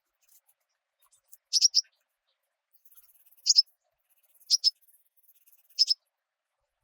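A small bird giving short, sharp double chip calls, repeated about once a second.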